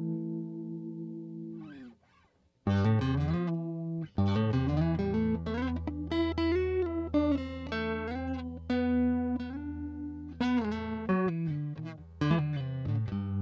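Electric guitar played through a JHS 3 Series Flanger pedal: a held chord rings and fades out, a short break about two seconds in, then a run of notes and chords over a sustained low note.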